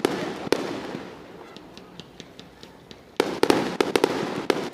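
Fireworks going off: a few sharp bangs at the start trail off into faint crackling, then a fresh rapid run of bangs begins about three seconds in.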